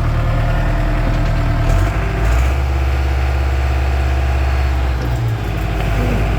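Diesel engine of a Schaeff construction machine running steadily. Its low note changes about two seconds in and returns a little after five seconds.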